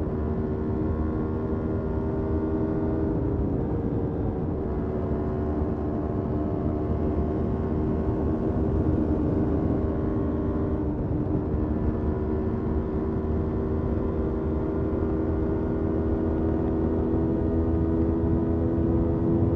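Motorcycle engine running at fairly steady revs while under way. Its note dips slightly a few seconds in, then holds level over a constant low rumble.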